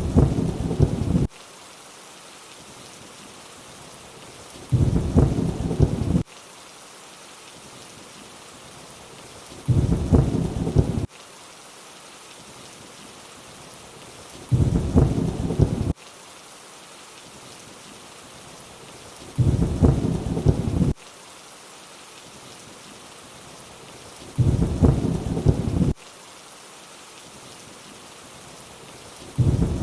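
Steady rain hiss under a short low thunder rumble that recurs at even spacing about every five seconds, each lasting about a second and a half and starting and stopping abruptly.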